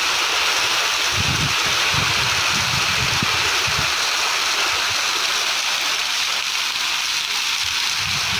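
Very heavy rain pouring down, a dense steady hiss, with a few irregular low thumps in the first half.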